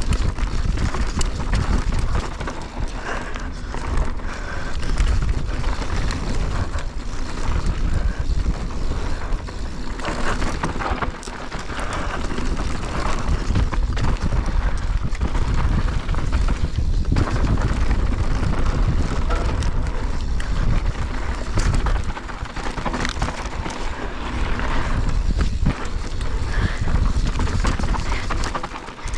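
Mountain bike ridden fast downhill on a rough race course: a steady rumble of wind on the microphone and tyres on dirt, with constant rattling knocks from the bike over bumps.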